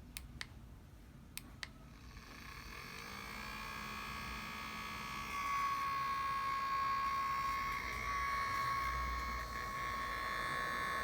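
A few light clicks, then the BioLite CampStove 2's small electric fan running on its lowest setting, building up over a few seconds to a steady whir with a high, even whine. The fan is vibrating more than usual, which the owner suspects is a loose fan inside.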